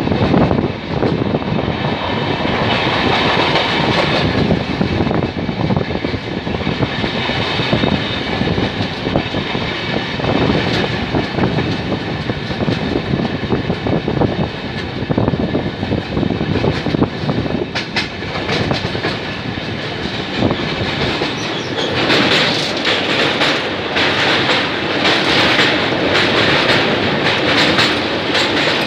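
Wheels of an Indian Railways express's LHB coaches running over the track at speed with a rhythmic clickety-clack, heard close up from the side of the moving coach. About three quarters of the way through the sound grows louder and harsher as the train runs onto a steel truss bridge.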